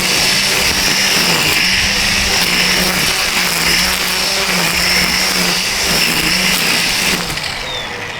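DeWalt 20V Max brushless cordless string trimmer running at speed with a high whine, its pitch dipping briefly several times as the spinning line cuts through weeds. The motor slows down near the end.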